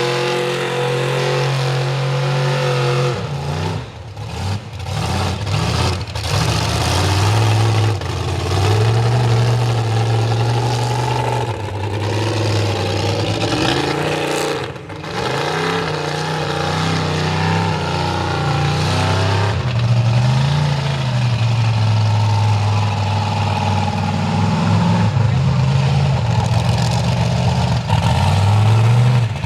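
Mega truck engine running hard under load, its pitch rising and falling as the throttle is worked. The throttle briefly lets off several times about four to six seconds in and once near the middle.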